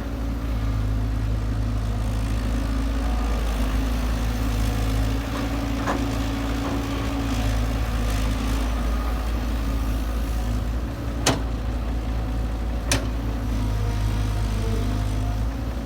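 Kobelco SK120-5 Super excavator's diesel engine running steadily and smoothly while it works, with two sharp knocks about a second and a half apart past the middle.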